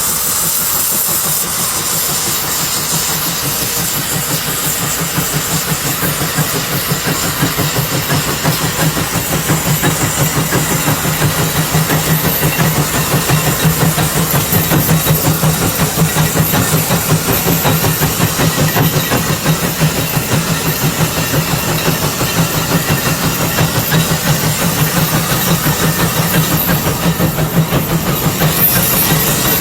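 Steam traction engine working hard, its exhaust chuffing in a fast, even beat over a steady hiss of steam; the beat grows a little louder after the first several seconds.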